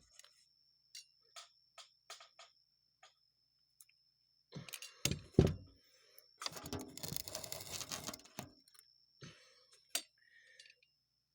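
Light clicks and taps of small metal carburetor parts and tools being handled while the float tab is bent and the float level checked, with two heavier thunks about five seconds in followed by a couple of seconds of rustling handling noise.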